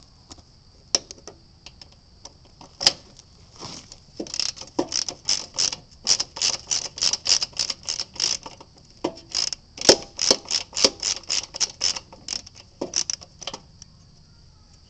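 Socket ratchet clicking as it is worked back and forth to loosen an engine mounting bolt: a few single clicks, then a long run of quick, even clicks at about four a second, stopping near the end.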